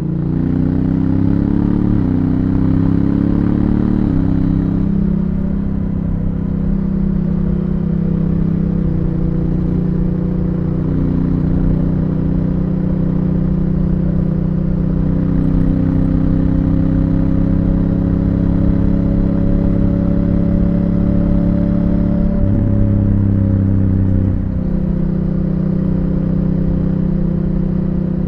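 Honda Africa Twin CRF1000L's parallel-twin engine through its stock exhaust, accelerating with two quick upshifts of the dual-clutch gearbox in the first few seconds and another shift a little later. It then runs fairly steadily under way, with a short drop in revs about three-quarters of the way through.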